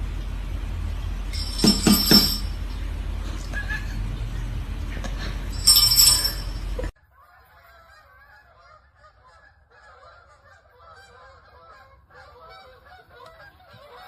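A steady low hum with two loud sudden noises, then a sudden change partway through to a flock of birds honking and calling over one another, more quietly.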